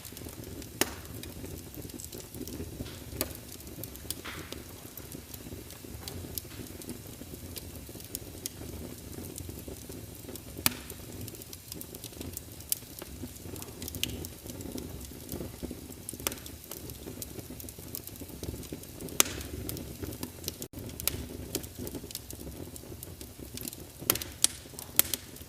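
Wood fire burning in a fireplace: a steady low rumble of the flames with scattered sharp crackles and pops of burning logs, a quick cluster of louder pops near the end.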